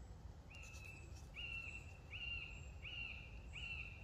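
A bird calling outdoors: five clear whistled notes, each a short arch in pitch, repeated a little under a second apart over a low background rumble.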